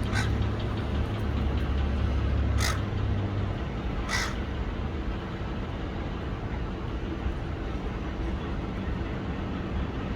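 A parrot giving three short, harsh screeching calls, about a second and a half apart, in the first half, over a steady background hiss.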